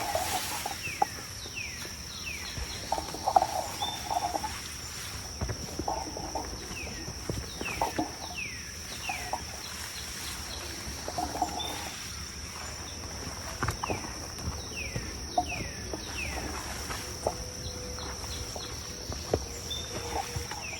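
Forest sound: a steady high insect drone, with a bird repeatedly giving short whistled calls that fall in pitch, and scattered small knocks.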